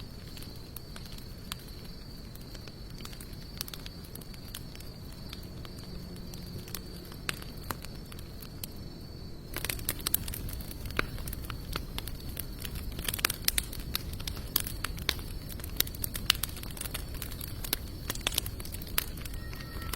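Wood fire of sawtooth oak and mixed hardwood logs burning and crackling, with scattered sharp pops that become denser and louder about halfway. A faint steady high tone runs under the crackling and stops about halfway.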